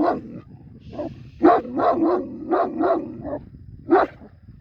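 Turkish shepherd dog barking in a quick series of short barks, then one more bark about a second later.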